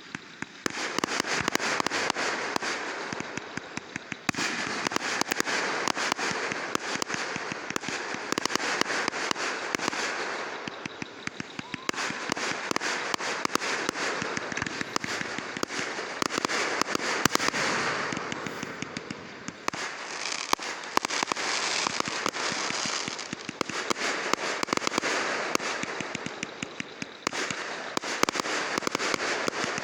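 Fireworks going off in a dense, continuous run of rapid crackling pops. The sound comes in waves that start abruptly, swell and die down before the next one begins: about a second in, again near 4 s, 12 s, 20 s and 27 s.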